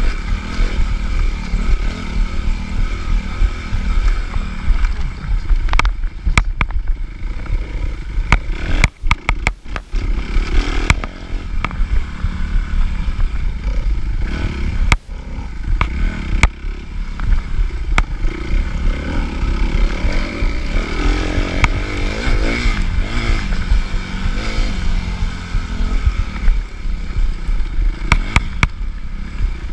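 Suzuki RM-Z250 motocross bike's single-cylinder four-stroke engine heard from on board, running hard and rising and falling in revs through the lap. Several sharp knocks and clatters cut through it.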